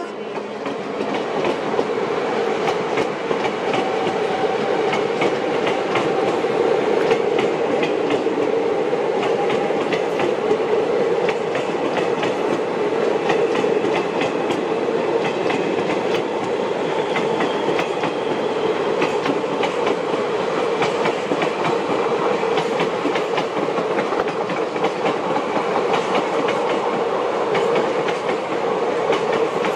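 Passenger train of the Ranakpur Express rolling past close by on the rails: a steady rumble with repeated clicks of wheels over the rail joints.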